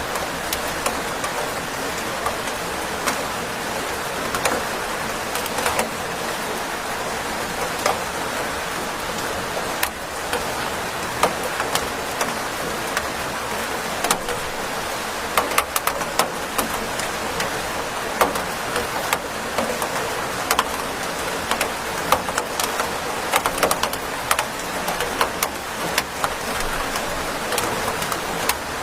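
Steady rain: an even hiss with frequent sharp ticks of single drops, which come more often in the second half.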